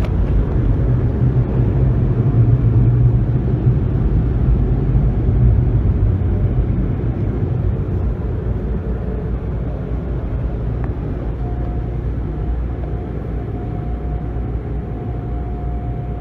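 Sonny's car wash blower dryers running, a loud steady roar of air heard from inside the car, easing off somewhat about halfway through. A thin steady whistle joins in near the end.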